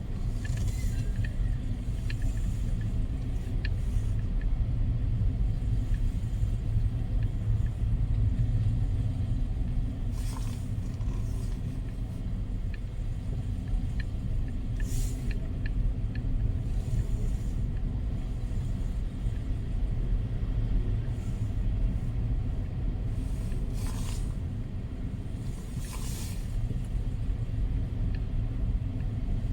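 Storm-force wind buffeting the microphone: a continuous low rumble, with a few short hissing swells about ten, fifteen and twenty-five seconds in.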